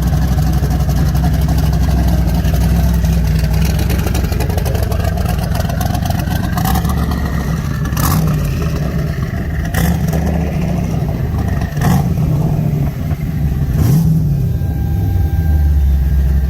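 Twin-turbocharged 6.0-litre LQ4 V8 with a Stage 3 cam running steadily, its pitch rising for a few seconds near the middle. In the second half there are several short sharp sounds about two seconds apart.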